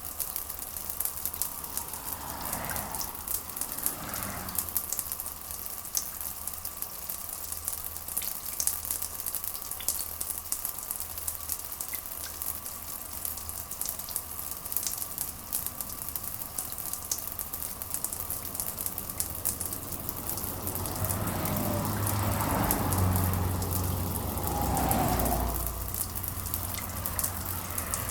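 Steady rain with dense pattering drops. Low rumbles of thunder swell about two seconds in and again, longer and louder, from about twenty to twenty-six seconds in.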